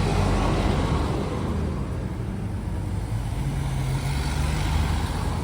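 An engine idling steadily, a low hum whose pitch shifts slightly about three to four seconds in.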